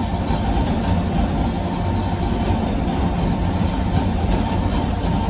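Inside a Sangi Railway Hokusei Line electric motor car (Mo 275), a 762 mm narrow-gauge train, running along the line: a steady, loud rumble of wheels and running gear, with a faint steady whine above it.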